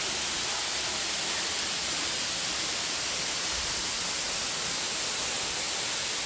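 Steady rushing noise of falling water from the waterfall, even and unbroken.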